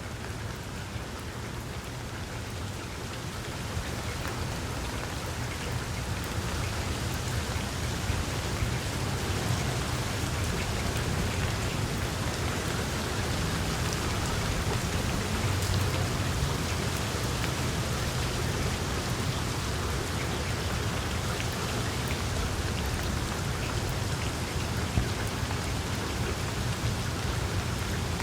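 Wood fire crackling in a fireplace: a dense stream of small pops and snaps over a steady low rumble of the flames, growing a little louder over the first several seconds, with one sharper pop near the end.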